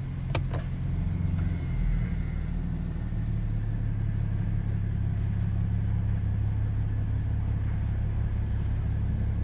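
Mercedes-Benz W212 E300 petrol engine idling rough and hunting after a cold start, heard from inside the cabin as a steady low drone. There is a sharp click about half a second in, and the engine note shifts about three seconds in as reverse gear is engaged. The mechanic blames the rough cold idle on a cracked intake manifold letting in unmetered air.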